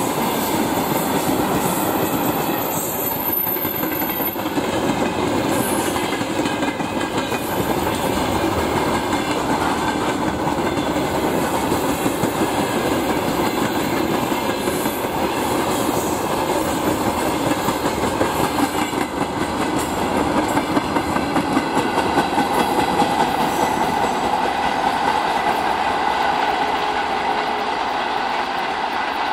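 Freight train wagons (tank cars, boxcars and hoppers) rolling past, their steel wheels clattering over the rail joints. The clatter turns more distinctly rhythmic about twenty seconds in and eases off slightly near the end as the last wagon moves away.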